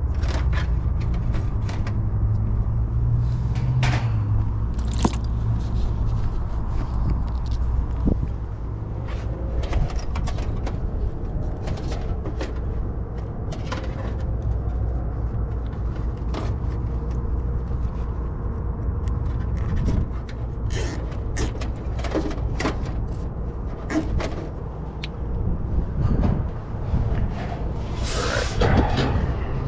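Tools and parts being handled: scattered clicks and knocks, and a longer scrape near the end, over a steady low hum.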